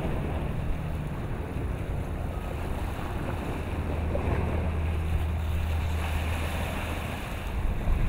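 Wind rumbling steadily on the microphone over the wash of choppy water.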